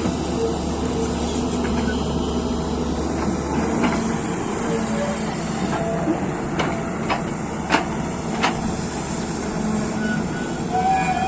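Excavator's diesel engine running steadily, with four sharp knocks past the middle.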